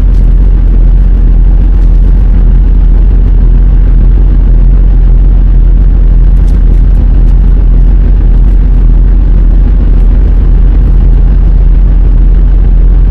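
Semi truck's diesel engine running, a very loud, steady low drone with no change in pitch.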